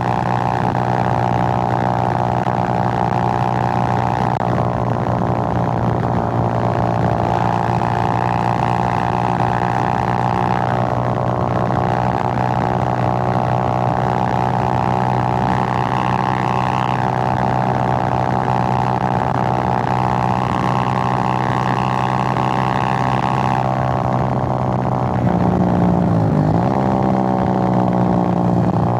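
Suzuki GN125's single-cylinder four-stroke engine running steadily at cruising speed on the road. Near the end the revs dip briefly and climb again, as at a gear change, and the engine gets a little louder.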